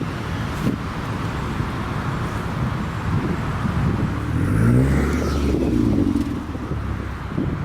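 A car engine accelerating, its pitch rising quickly a little past halfway through, over a steady low rumble of passing traffic.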